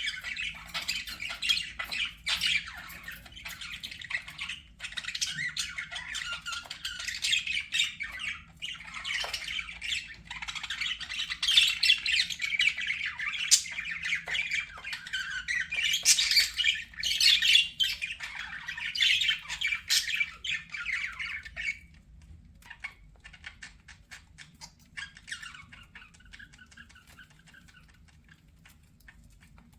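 Budgerigars chattering and warbling with a rapid mix of squawks and chirps. The chatter thins out about three-quarters of the way through, leaving a few faint calls.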